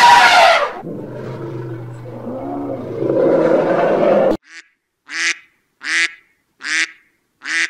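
Animal calls: a loud call at the start and mixed calling after it, then, after an abrupt cut, a run of five short, evenly spaced calls, a little under a second apart.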